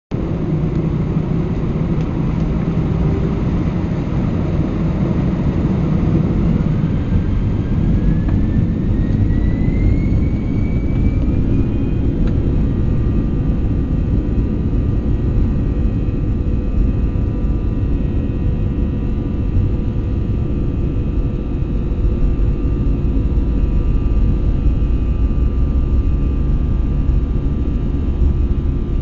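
Airbus A320 jet engines at takeoff, heard inside the cabin: a steady low roar, with an engine whine that rises in pitch for several seconds starting about six seconds in and then holds steady.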